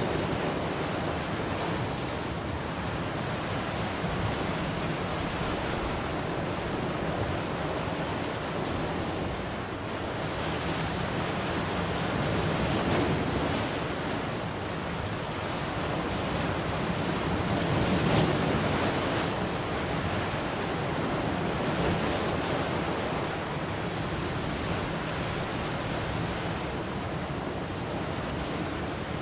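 Ocean waves washing onto a shore in a steady surf, with gentle swells as a wave breaks about thirteen and eighteen seconds in.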